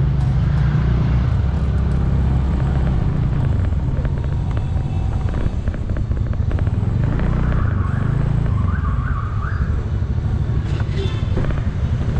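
Steady low rumble of wind buffeting and road noise on the action camera's microphone during a motorbike ride in traffic. A brief higher warbling tone sounds about eight seconds in.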